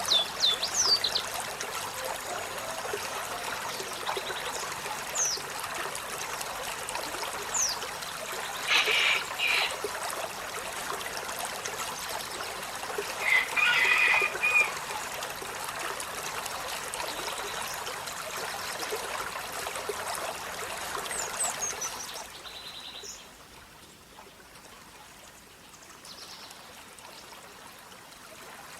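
Olive-backed sunbird calling: scattered thin, high notes that slide downward and two short chattering bursts, over a steady water-like hiss that drops away about two-thirds of the way through.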